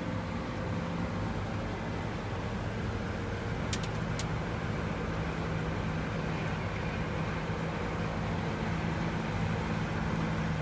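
Large diesel farm machine engine running at a steady speed, with two short sharp clicks about four seconds in.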